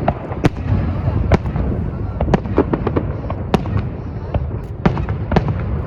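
Fireworks display going off: a rapid, irregular string of sharp bangs and cracks, several a second, over a continuous low rumble.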